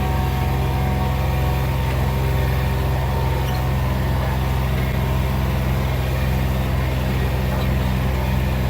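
Vehicle engine running steadily with a low, even drone and road noise, holding constant speed.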